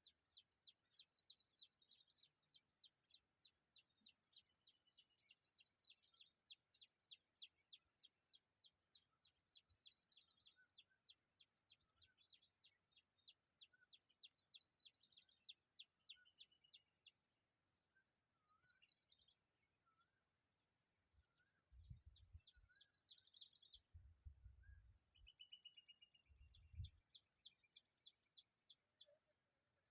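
Faint, rapid high-pitched bird chirps repeating in runs over a steady high hiss, with a few short falling notes mid-way. A few low bumps come about three-quarters of the way through.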